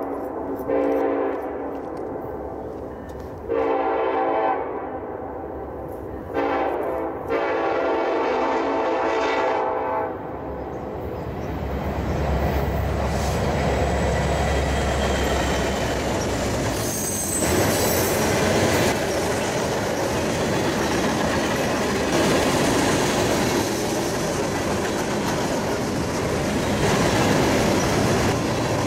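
Air horn of Union Pacific 1943, an EMD SD70ACe diesel locomotive leading a freight train, sounding four blasts. The first and third are short, and the last is held about three seconds. The locomotive's engine then grows loud as it passes close, followed by the steady rumble and clatter of freight cars rolling by.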